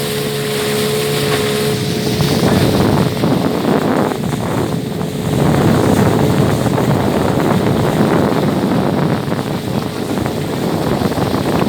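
Motorboat engine running steadily underway, with wind buffeting the microphone; the wind rush grows heavier about two seconds in and largely covers the engine's tone.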